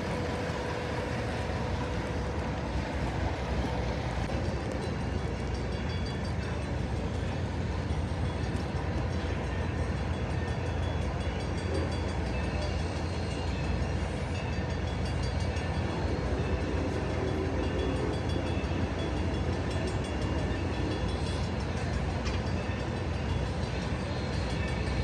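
A train running steadily on the rails: an even, unbroken rumble with no sudden events.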